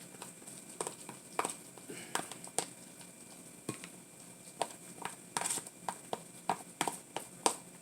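Utensil clinking and scraping against a dish while macaroni is mixed with an egg-and-cheese mixture: a string of irregular light clicks and taps.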